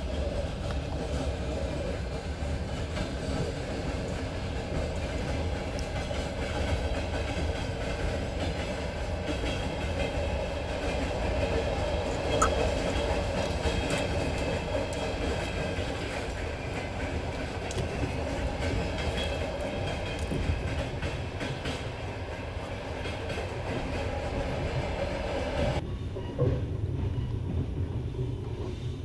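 Passenger train coach running along the track, heard from its window: a steady rumble and rushing of wheels on rails, with scattered sharp clicks. About twenty-six seconds in, the high hiss cuts off suddenly, leaving mainly the low rumble.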